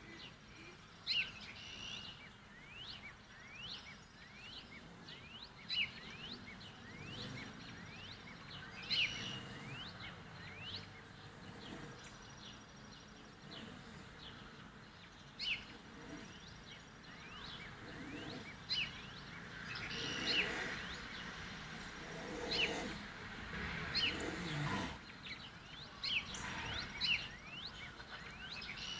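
Small birds chirping: a steady stream of short, sweeping high calls, about one a second. Patches of low rumbling sound come and go under them, strongest a little past the middle.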